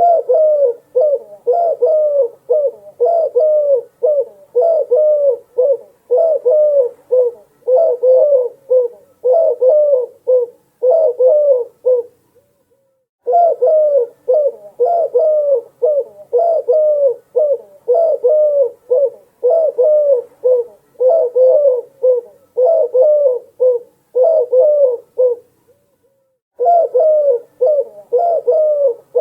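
Dove cooing in a quick rhythmic series of short notes, about two a second, in long runs broken by two brief pauses.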